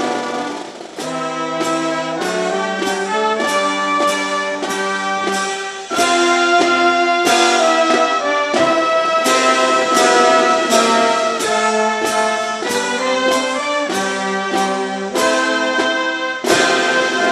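Brass band music, trumpets and trombones playing a lively tune with short repeated notes and a steady beat.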